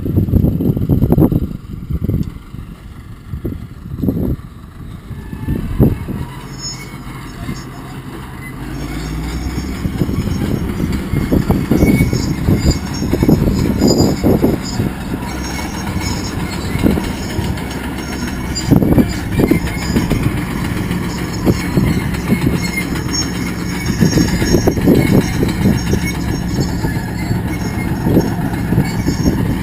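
A vehicle engine running: its pitch rises about nine seconds in and then holds steady, with irregular knocks and clatter over it.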